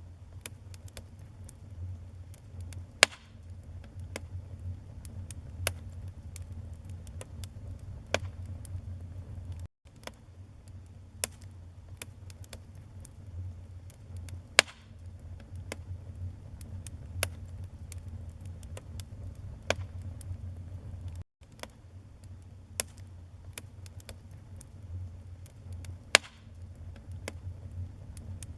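Wood fire burning in a fireplace: logs crackling with frequent small snaps and a few sharp loud pops, over a low steady rumble. The sound cuts out for an instant twice.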